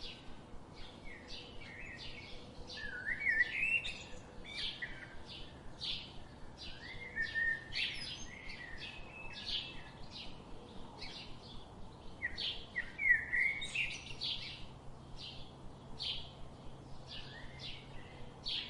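Several birds chirping and singing: a dense run of short, high chirps with warbling phrases woven through, several calls overlapping.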